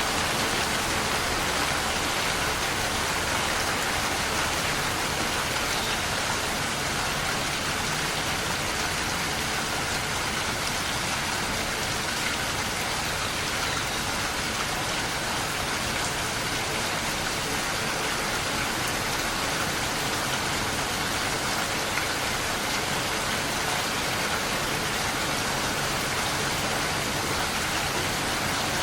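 Steady rain falling on a surface, a dense even hiss of drops.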